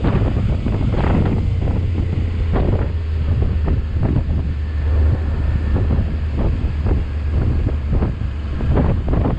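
Wind buffeting the microphone of a riding motorcycle in irregular gusts, over the steady low drone of the motorbike's engine.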